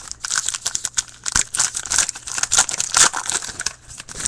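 Crinkly plastic-foil wrapper of a hockey card pack being torn open and crumpled by hand, a dense run of crackles and sharp snaps.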